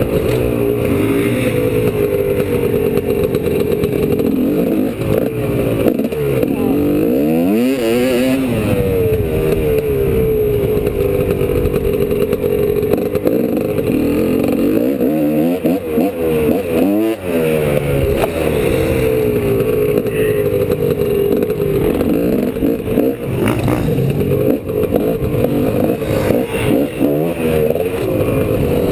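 2003 GasGas EC300 300cc single-cylinder two-stroke dirt bike engine revving up and down under hard riding, the throttle opening and closing over and over. It drops off sharply twice, about 7 and 17 seconds in, before climbing again. The fork oil is low, so the bike tends to bottom out on the jumps.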